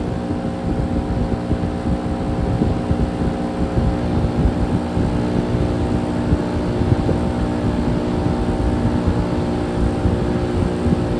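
Heat pump compressor running with a steady multi-tone hum over a rough rumbling rush of air, at the end of a defrost cycle the owner calls an angry defrost.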